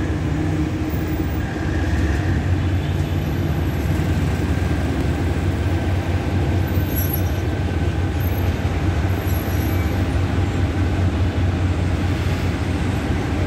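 Steady low rumble of a diesel locomotive running as a regional train passes, mixed with road traffic from passing cars.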